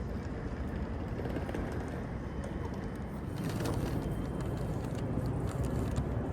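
Outdoor city ambience: a steady low rumble of traffic that swells a little about three and a half seconds in, with scattered light clicks.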